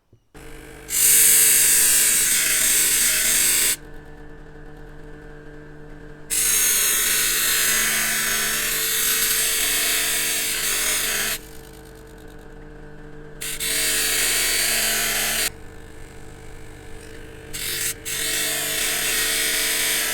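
An electric power tool's motor starts just after the beginning and hums steadily. Four long spells of loud, hissing abrasion break in as work is pressed against it, with the motor still running in between.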